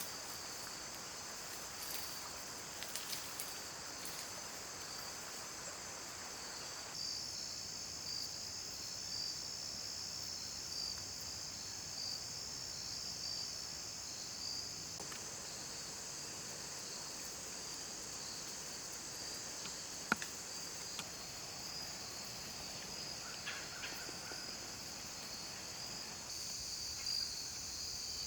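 Insects, crickets among them, chirping in a steady high-pitched chorus, with a few faint clicks and snaps.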